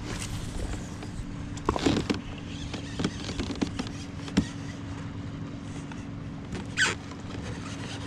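Knocks and rattles of gear being handled on a fishing kayak, a few sharp hits about two, three and four and a half seconds in, and a short splash near the end, over a steady low hum.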